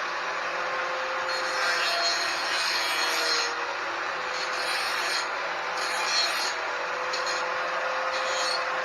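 Angle grinder running against the steel frame, cutting metal: a steady motor whine that sags a little in pitch as the disc loads, over a harsh hiss that surges unevenly.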